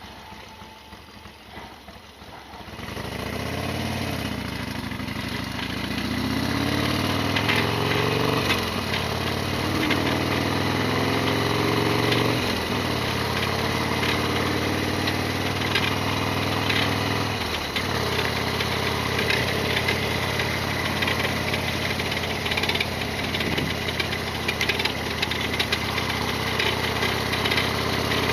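Harley-Davidson Sportster XL1200R's air-cooled V-twin pulling away after a quieter first couple of seconds, rising in pitch and dropping back at three gear changes, then running steadily. The engine and bike carry a loud rattling the owner calls abnormal noise.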